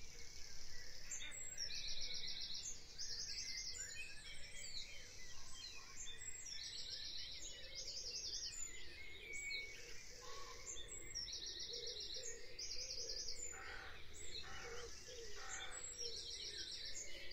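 Faint, high, trilled chirps repeating every second or two, like a small bird calling in the background, over low room hiss.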